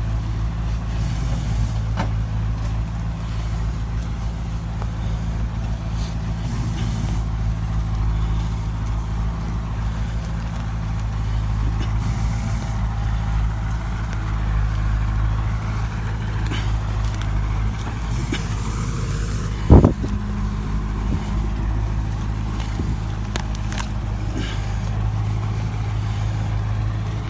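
Heavy diesel truck engine running steadily under load. A single sharp thump about twenty seconds in is the loudest moment.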